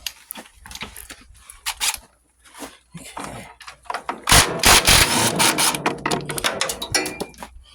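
Scattered tool clanks and knocks, then about halfway through an impact wrench hammers at a bolt for about three seconds.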